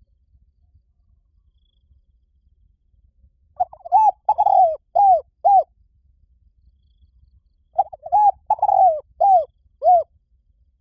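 Spotted dove cooing twice, each call a phrase of four or five short arched coos, the first starting about three and a half seconds in and the second near eight seconds.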